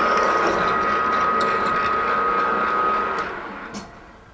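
Machine tool spindle turning a 23/32-inch drill bit through a metal block at slow speed: a steady whine over a rough cutting hiss, which stops and runs down about three seconds in.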